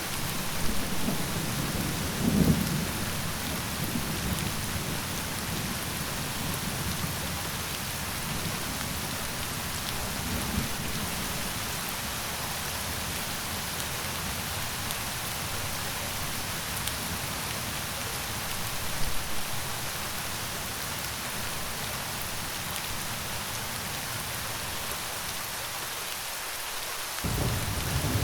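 Steady rain with low rolls of thunder, the loudest about two seconds in, weaker ones around ten and nineteen seconds, and another building near the end.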